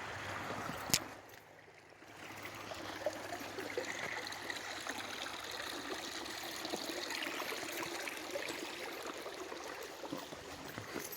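Stream water running and trickling, with a sharp click about a second in, after which the water is briefly quieter before it returns.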